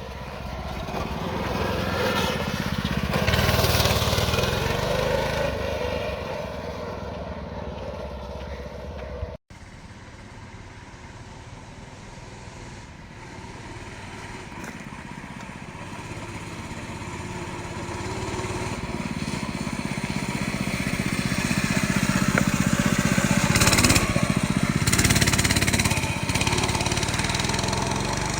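Small minibike engine being ridden: it revs up and grows louder as the bike nears, then fades as it moves away. This happens twice, with an abrupt cut about a third of the way through.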